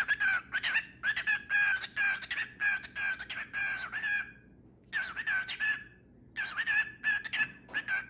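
Bird calls in quick runs of pitched chirping notes, with two short breaks about four and a half and six seconds in.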